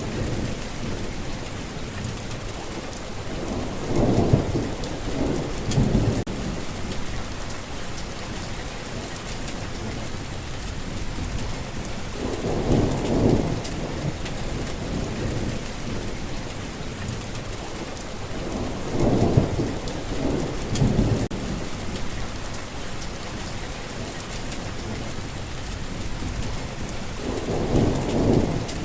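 Steady rain falling, with low rolls of thunder swelling up and dying away about six times.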